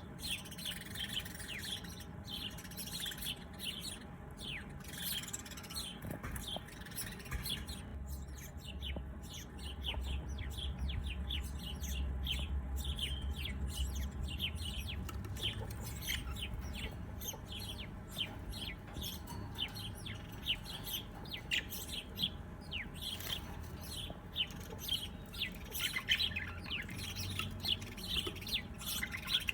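Many small birds chirping in quick, short overlapping notes, with a low rumble underneath for several seconds in the middle.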